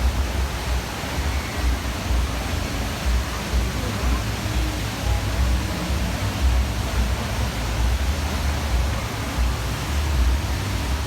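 Steady rushing roar of a large indoor waterfall, the Rain Vortex, with a deep low rumble under it.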